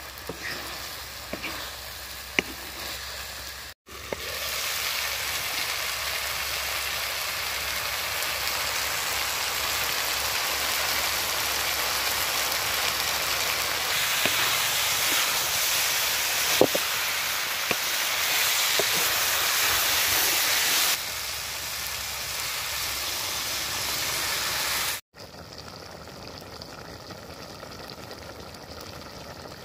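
Cauliflower, tomato and masala sizzling hard in a kadai over a wood fire, with a wooden spatula scraping and knocking against the pan as it stirs. Near the end the sound drops to a quieter, steady bubbling of the curry simmering in its gravy.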